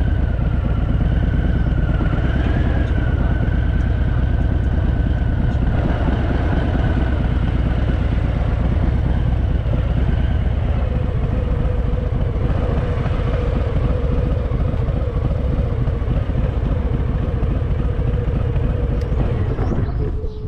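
Harley-Davidson V-twin motorcycle being ridden, its engine running steadily under heavy wind rush, with a faint steady whine that shifts lower about halfway through. The sound drops off suddenly at the very end.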